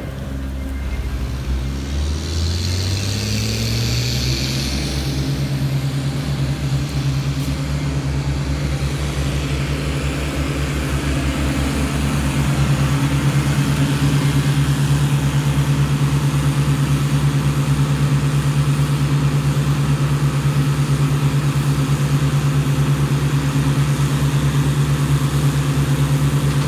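Tree-service truck's engine revving up over about five seconds, then holding at a steady high speed, getting louder about twelve seconds in. A brief hiss sounds about two to five seconds in.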